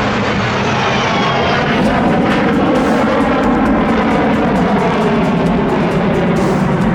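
Saab JAS-39 Gripen fighter jet's single engine running loudly and steadily, with a whine falling in pitch over the first two seconds.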